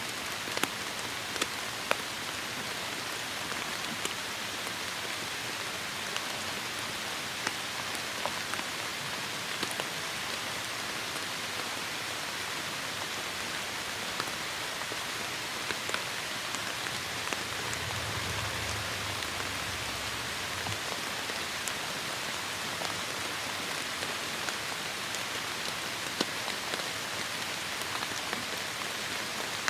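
Heavy rain falling steadily, an even hiss with scattered sharper drop ticks. A brief low rumble sounds about two-thirds of the way through.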